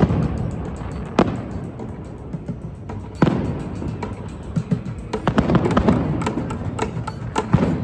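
Fireworks going off: sharp bangs about one second and three seconds in, then a rapid string of crackling pops through the second half, with music underneath.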